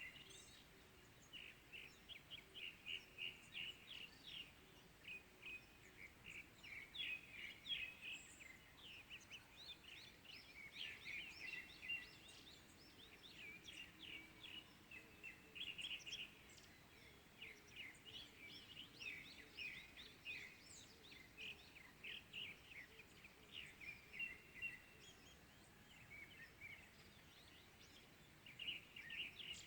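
Morning birdsong: several small birds chirping and trilling in quick runs of short, high notes, with brief lulls, over faint outdoor background noise.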